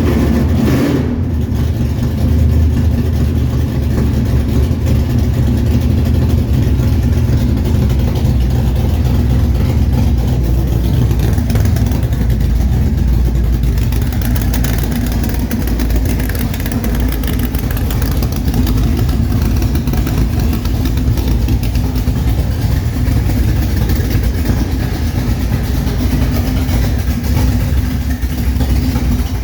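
Chevrolet 454 big-block V8, bored .030 over, idling steadily while it warms up after a cold start.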